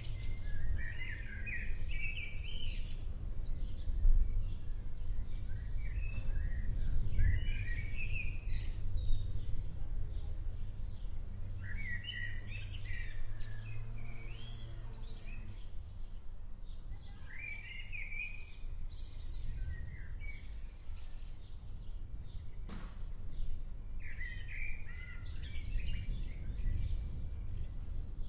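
Bird song in short chirping phrases that come back every five or six seconds, over a steady low rumble, with one sharp tick about three-quarters of the way through.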